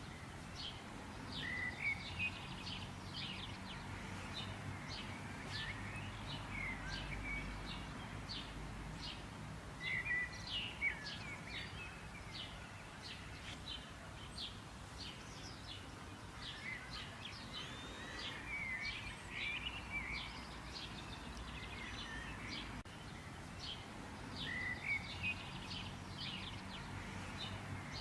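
Many small birds chirping and calling in quick, high, short notes over a steady low background hum.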